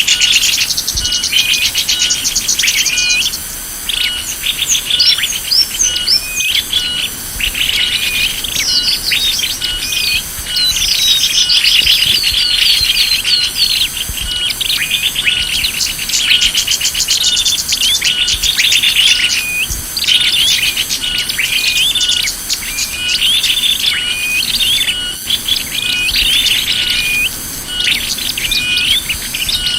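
Small-bird lure recording (pikat): dense, rapid chirps and trills from several small birds with short breaks, over a steady high pulsing in the background.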